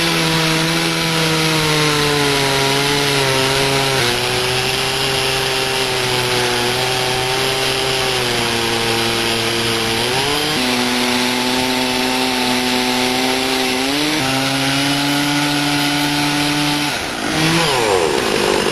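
Chainsaw mounted in a Granberg Alaskan chainsaw mill, running at high revs under load as it rips lengthwise through a cedar log. The engine pitch shifts a few times as the load changes, and the engine note falls away near the end.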